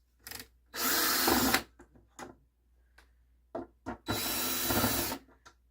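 Power drill run in two bursts of about a second each, with a few light clicks and knocks between them.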